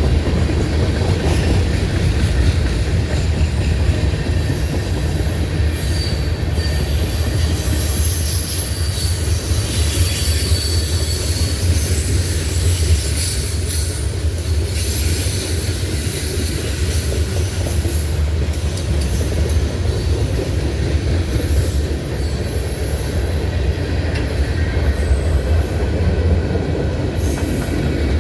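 Norfolk Southern freight train rolling past, a steady heavy rumble of cars on the rails, with wheels squealing in thin high tones on and off.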